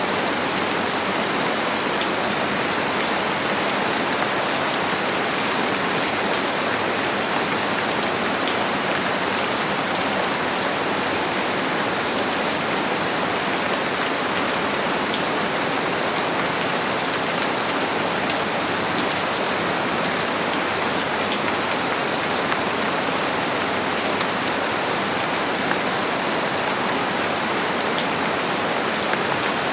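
Steady rain falling on a surface, an even hiss dotted with many small sharp drop ticks.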